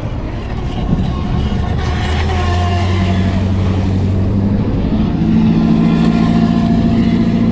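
ProBoat Recoil 2 RC speedboat's electric motor running on the water, its whine gliding up and down with the throttle, over a steady low engine drone that shifts higher about five seconds in. The LiPo battery is starting to fade.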